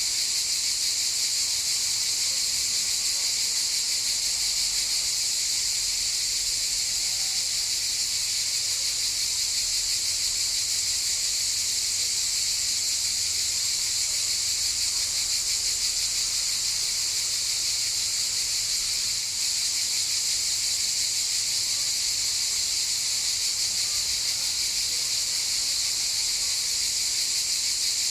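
Chorus of cicadas making a steady, continuous high-pitched buzz that never lets up.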